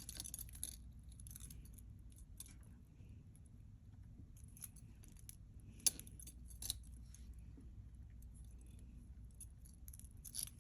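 Scattered light clinks and taps of costume jewelry being handled, the sharpest about six seconds in.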